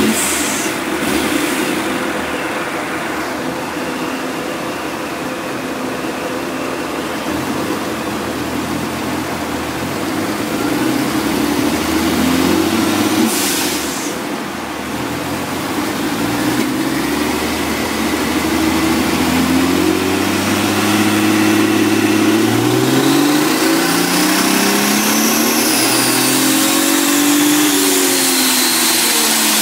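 Supercharged, fuel-injected 1959 Austin-Healey 3000 straight-six running on a chassis dynamometer, engine speed climbing in several stages through the second half, peaking near the end and then dropping back. A high whine rises and falls with the revs.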